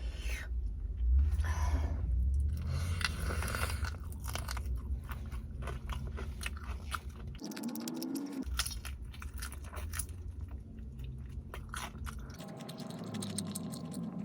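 Close-miked biting, crunching and chewing of crispy fried chicken, with irregular crackles and wet mouth clicks. A short hum about eight seconds in.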